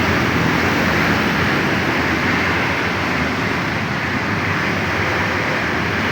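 Kawasaki two-stroke trail motorcycle engine running steadily.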